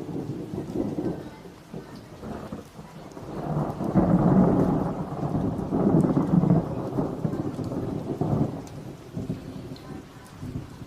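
Thunder rumbling over steady rain: it breaks in suddenly, swells to its loudest about four to six seconds in, then rolls away near the end.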